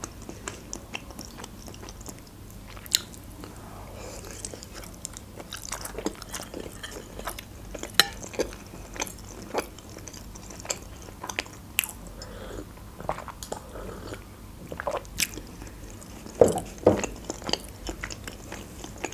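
Close-miked chewing of a manty (steamed meat dumpling): soft wet mouth sounds with many scattered small clicks, a little stronger near the end.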